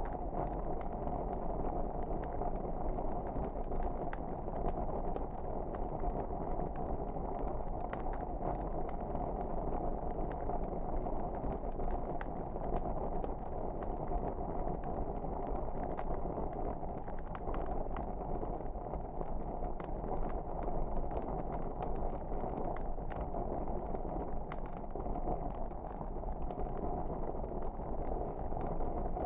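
Wood fire burning: a steady low rush with frequent small crackles and pops scattered irregularly throughout.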